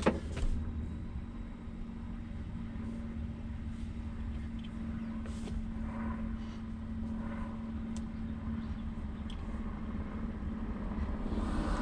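A car engine idling steadily, a low even hum with a few faint clicks over it.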